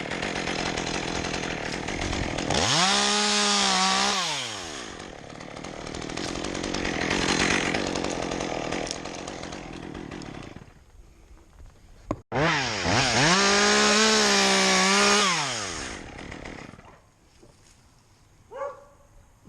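Chainsaw revved up to full throttle and let back down twice, each burst held a second or two, with rough, noisy running between them, typical of the chain cutting into dry dead birch. The saw drops away near the end.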